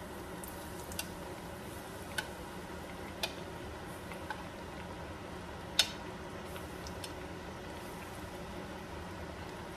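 Coated chicken pieces frying in hot oil in a wok, a steady sizzle, while metal tongs click against the plate and pan about six times, the loudest a little past halfway.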